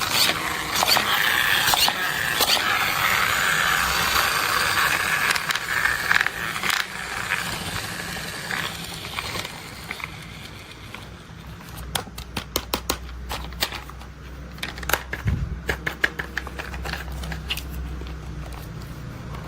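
Crackling and scraping from toys being handled for the first several seconds, then a run of quick sharp clicks and ticks over a faint low hum.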